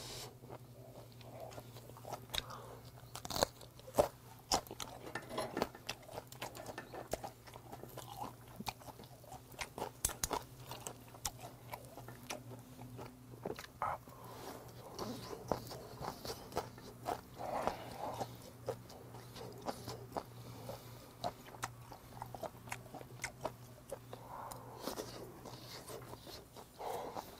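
Close-miked chewing and biting of charcoal-grilled beef offal, with many short sharp mouth clicks. A steady low hum runs underneath and stops shortly before the end.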